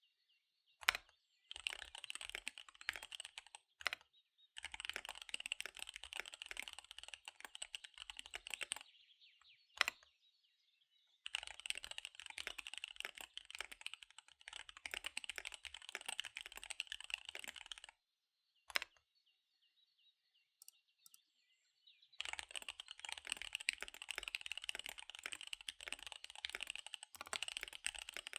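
Fast typing on a KBD75 V3 mechanical keyboard with SP-Star Dark Magic Girl tactile switches and DSA keycaps: quick runs of key clicks broken by three short pauses, each pause holding one louder lone keystroke.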